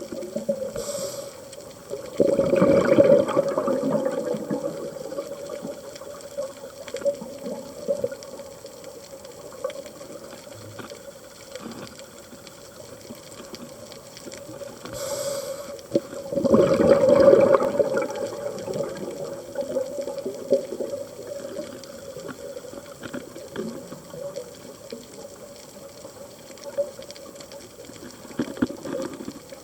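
Underwater sound of a scuba diver's regulator: two long rushes of exhaled bubbles, about two seconds in and again about sixteen seconds in, over a steady low hum and faint crackling.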